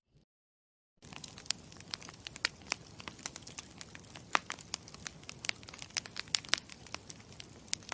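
Campfire crackling: irregular sharp pops and snaps of burning wood over a soft steady hiss, starting abruptly about a second in after dead silence.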